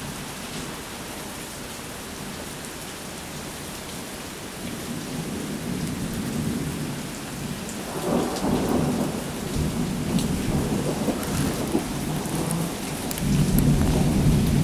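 Steady rain falling, with thunder rumbling that builds from about a third of the way in, swells about halfway and grows loudest near the end.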